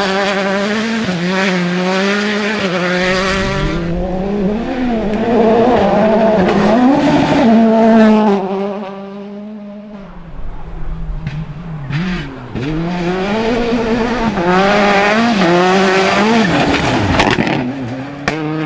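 Rally car engine revving hard on a gravel stage, its pitch repeatedly climbing and dropping through gear changes and throttle lifts. It fades away about nine seconds in, and engine revving comes back loud from about twelve seconds.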